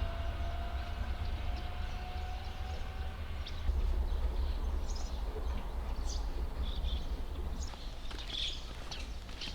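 Outdoor ambience: a steady low rumble, with a faint thin tone that fades out about three seconds in and short high chirps scattered through the second half.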